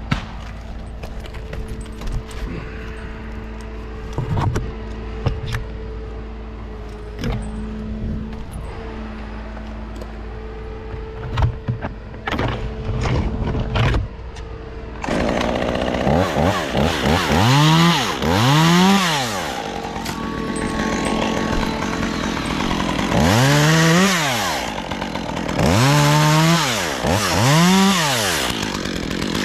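Chainsaw throttled up again and again about halfway through, its pitch rising and falling with each burst as it cuts. Before that, a steady low hum with scattered clicks and knocks.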